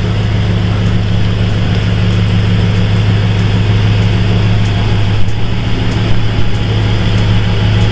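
Vehicle engine idling steadily with a deep, even hum.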